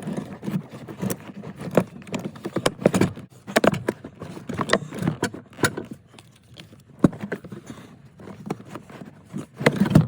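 Irregular clicks, knocks and rattles of hands working in a car's trunk battery compartment, moving straps, hoses and plastic fittings around the battery tray.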